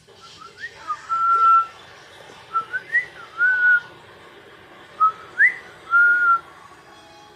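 Clear whistling in three short phrases, each made of quick upward slides and a held steady note, with quiet gaps between them.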